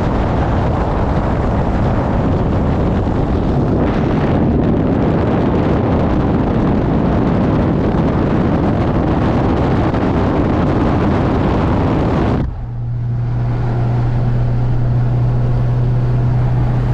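Car driving at highway speed: dense wind and road noise. About twelve seconds in, the sound changes abruptly to a steady low engine drone.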